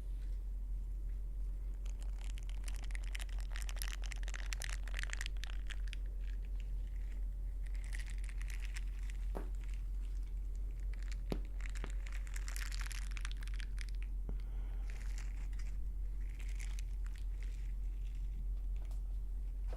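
An ear pick scratching and scraping against a microphone's ear in close-miked ear-cleaning ASMR. The crackly rustling comes in bursts every few seconds, with a few sharp clicks near the middle, over a steady low hum.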